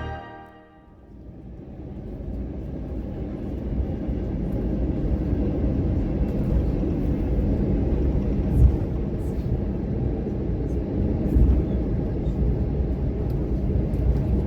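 Cabin noise aboard an Airbus A321: a steady low rumble that fades in over the first few seconds, with two short sharp thumps in the middle.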